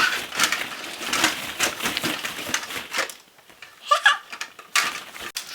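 Hollow plastic ball-pit balls rattling and clattering together in quick, dense clicks as a toddler moves among them, easing off after about three seconds. A brief child's vocal sound comes about four seconds in.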